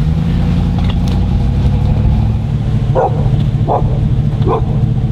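Steady low rumble of wind and a running vehicle engine. About three seconds in, a dog starts barking, short barks roughly every second.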